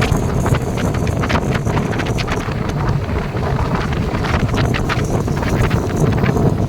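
Wind buffeting the microphone: a loud, steady rumble with irregular crackling.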